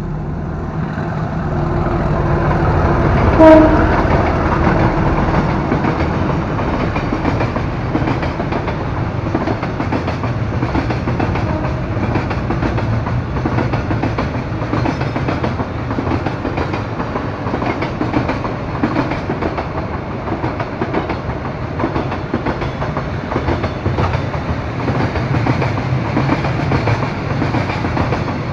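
Indian-built diesel locomotive sounding its horn, ending in a short loud blast about three and a half seconds in, as it passes with its engine rumbling. Then a long freight train of container wagons rolls steadily past, wheels clattering on the rails.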